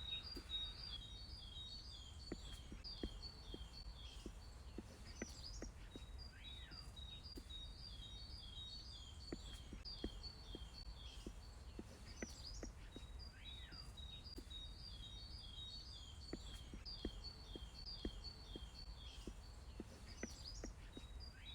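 Faint birdsong: repeated runs of short, high, falling chirps, phrase after phrase, over a low steady background rumble.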